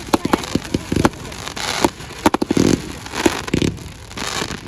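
Fireworks going off: a rapid, irregular series of bangs and pops, several in quick clusters, over a steady hiss of crackle.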